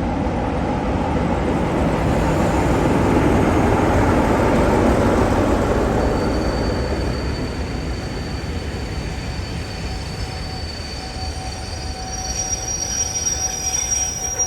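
A train passing on the line: a rumble that builds over the first few seconds and then slowly eases off, with thin, high, steady whining tones coming in about halfway through.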